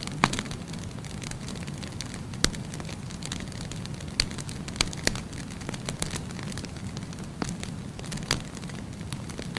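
Firewood burning in a fireplace: a steady low rumble of the flames with irregular sharp crackles and pops from the burning logs.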